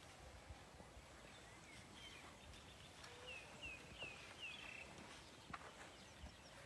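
Near silence: faint outdoor ambience, with a small bird chirping about five times in quick succession around the middle.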